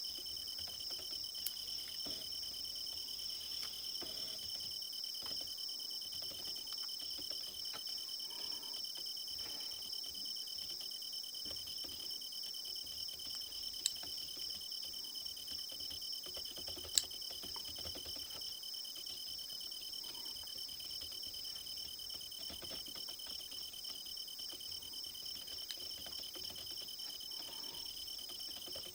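Crickets chirping in a steady, fast-pulsing chorus of high trills. A few sharp clicks stand out over it, the loudest a little before and a little after halfway.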